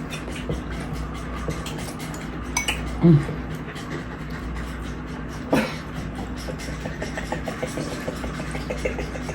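Fork and plate clinking while eating, with a louder knock about three seconds in and a sharp clink about five and a half seconds in, then smaller scattered clicks.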